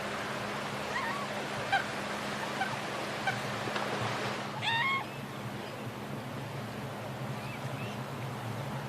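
Swan calls: a series of short calls over a steady background hiss, the loudest with a rising pitch about four and a half seconds in, then fainter calls.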